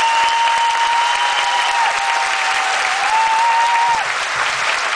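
Theatre audience applauding, a dense steady clapping. Over it a long, high, steady tone holds with small shifts in pitch and stops about four seconds in.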